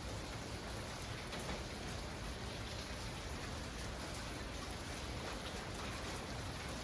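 Steady rain falling, with faint separate drop ticks over a low steady rumble.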